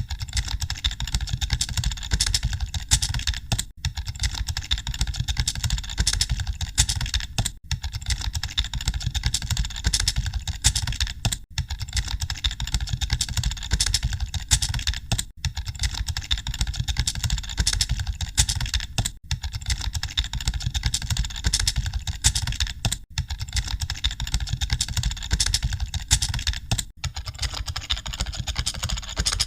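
Many computer keyboards typing at once, a dense, continuous clatter of keystrokes like an exam hall during a typing test. Very short drop-outs come about every four seconds.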